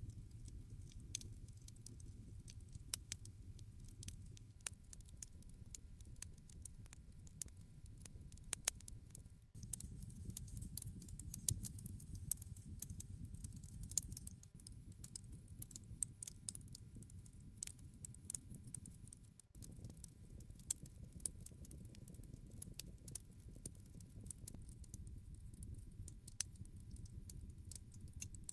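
Wood campfire burning: a steady low rumble of flames with frequent sharp crackles and pops, now and then a louder snap.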